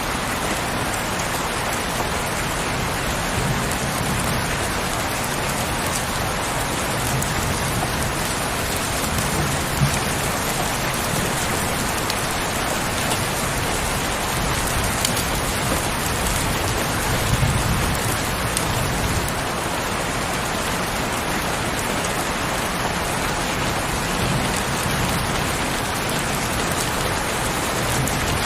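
Heavy rain falling steadily, a dense even hiss. A couple of brief low thuds come through it, about a third of the way in and again a little past the middle.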